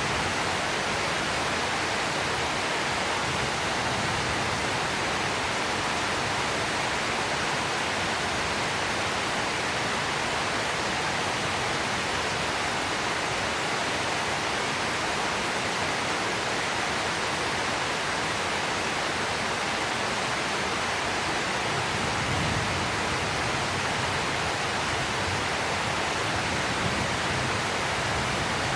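Heavy rain pouring steadily, an even dense hiss that does not change.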